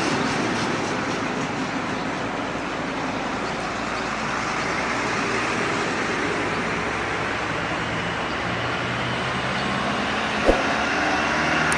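Road traffic: diesel truck engines running and tyre noise, steady, with an engine note growing plainer near the end and a single short knock shortly before the end.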